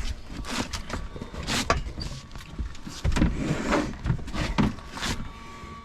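Irregular clunks, knocks and scraping of hard cabinet parts and fittings being handled and shifted.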